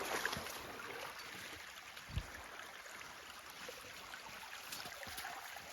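Runoff from rain and snowmelt flowing steadily over icy ground, a continuous running-water sound. A single low thump about two seconds in.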